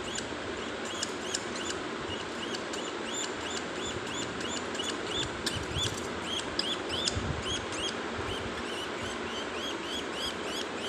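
Budgerigar chick chirping over and over in short, high, quick-rising-and-falling chirps, about three a second.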